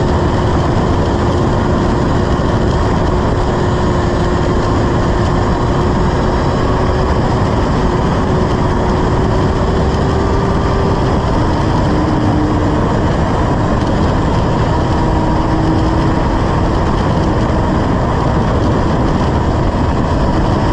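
Suzuki motorcycle ridden at a steady pace: wind rushing over the microphone, with a steady engine note underneath that drops a little about halfway through.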